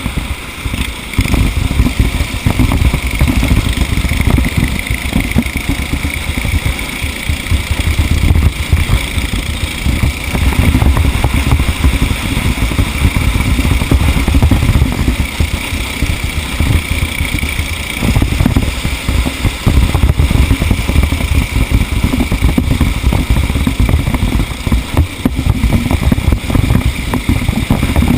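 Racing vehicle engine running continuously at speed, with heavy low rumble and buffeting noise on the microphone.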